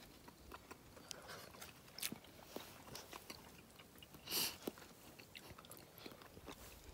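Faint close-up chewing of a mouthful of fried trout: soft mouth clicks and smacks, with a short louder rush of noise a little over four seconds in.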